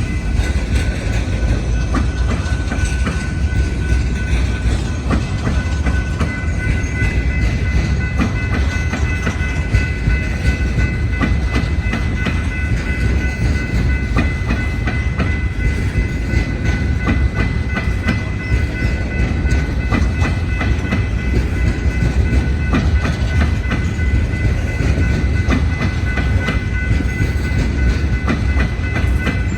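Coal train's railcars rolling past, a steady rumble with wheels clicking over rail joints and a steady high-pitched tone over it.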